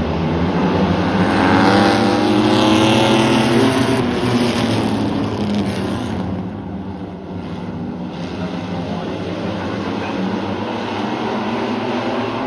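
A field of oval-track race trucks running past on a short speedway, several engines at once with pitches sliding as they go by. Loudest a couple of seconds in, then easing to a steady drone of engines around the track.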